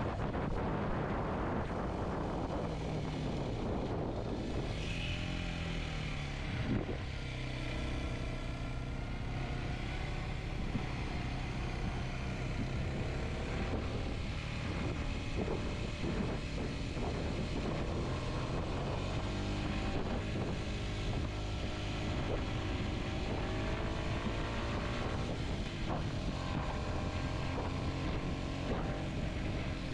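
Kawasaki Z125's small single-cylinder engine running as the motorcycle is ridden, its pitch repeatedly rising and falling as it revs up and changes gear.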